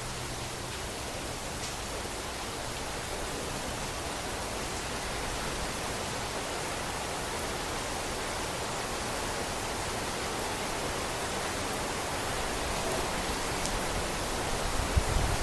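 Steady rain falling, an even hiss with no distinct drops standing out. A low rumble begins near the end.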